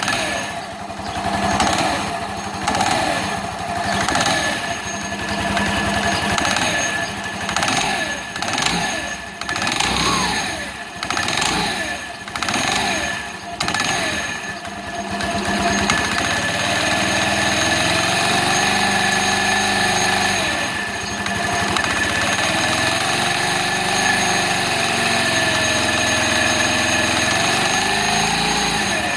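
An engine running, its speed rising and falling repeatedly for about the first fifteen seconds, then running steadier with its pitch wavering slowly.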